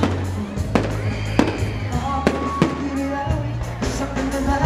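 Fireworks going off in a string of sharp bangs, about one or two a second, over loud music with a heavy bass.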